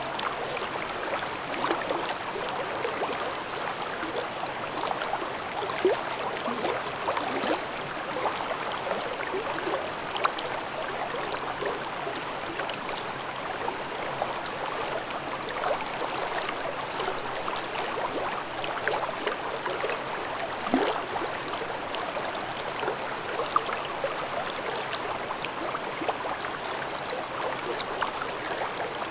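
Mountain stream babbling over rocks in a valley gorge: a steady rush of running water with constant small gurgles and a few slightly louder splashes now and then.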